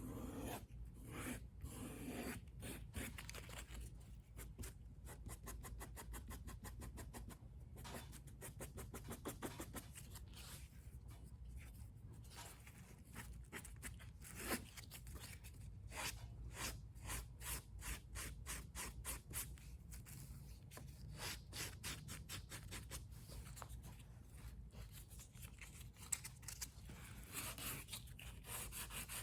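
220-grit sandpaper rubbed by hand along the edges of a book's cover, in quick back-and-forth strokes, several a second, that make a faint, steady rasp.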